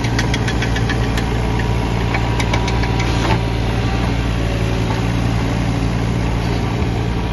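Caterpillar 301.7D mini excavator's diesel engine running steadily with a low hum. A quick run of light ticks sounds through the first three seconds or so.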